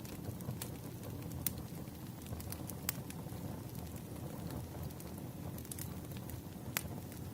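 Campfire crackling: a steady low rumble of burning wood with scattered sharp pops, the loudest about a second and a half, three and seven seconds in.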